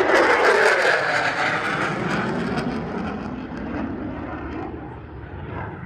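F-16 fighter jet flying away after a pass: loud jet noise with crackle that drops in pitch and fades steadily.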